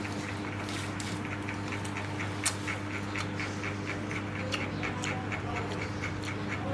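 A run of rapid soft clicks, about three to four a second, over a steady low hum.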